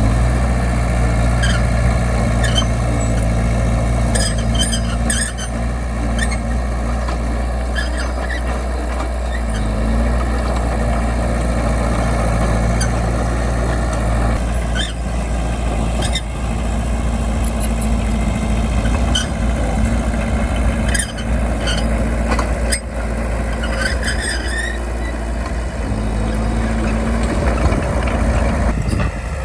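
Bulldozer's diesel engine running steadily at work, its note shifting a couple of times, with scattered short metallic squeaks and clanks.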